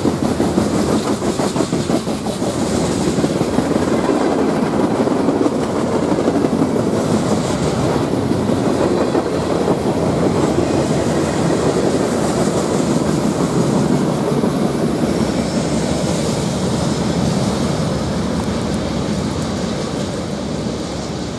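Freight train cars rolling past at speed, a steady rumble with wheels clattering on the rails, easing off a little near the end as the cars move away.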